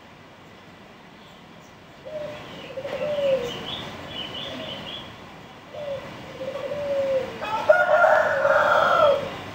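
Birds calling: three drawn-out calls, each a second or more long, the third loudest and fullest, with faint high chirps during the first two.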